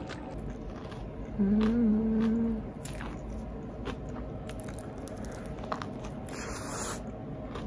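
A person chewing and biting into bread, with small mouth clicks throughout. About a second and a half in there is a closed-mouth "mmm" of enjoyment, held for about a second, and a short rustle comes near the end.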